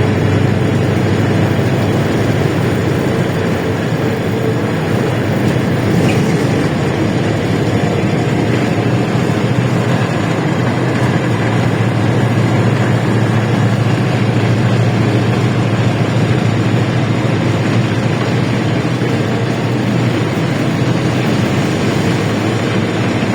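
LiAZ-677M bus under way, heard from inside the cabin: a steady low drone from its ZIL V8 petrol engine, mixed with road and body noise.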